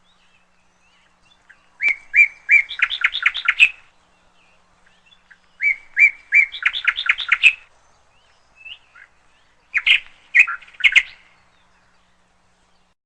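Canary chirping in three short bursts, each starting with a few spaced notes and running into a quick string of high chirps.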